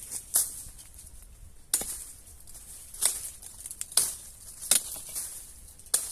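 Footsteps crunching through dry forest leaf litter, about one step a second.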